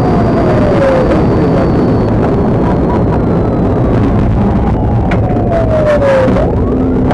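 Police car siren wailing, its pitch sliding slowly down and then rising again near the end, over loud, steady engine and road noise during a pursuit.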